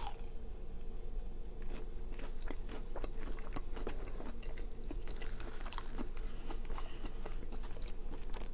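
A person chewing and biting food close to the microphone, with many short, irregular mouth clicks and smacks. A faint steady hum runs underneath.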